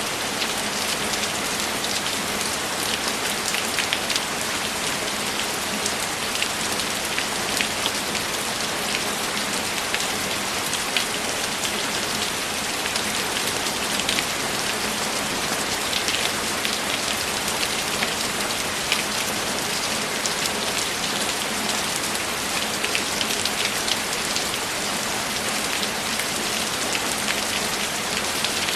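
Steady rain falling, many small drop ticks over an even hiss, with no break or change.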